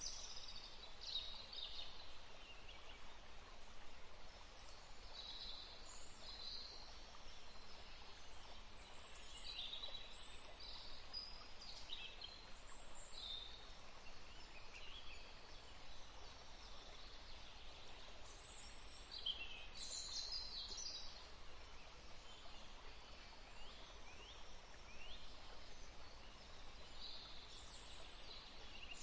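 Small songbirds chirping and calling in short, high phrases scattered throughout, over a steady faint background hiss.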